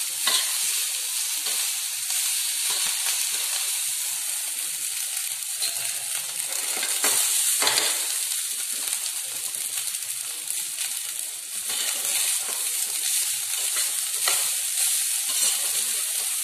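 Rice and vegetables sizzling steadily in a hot stainless steel pan, with a few clicks and scrapes of a metal spatula against the pan as the rice is folded in.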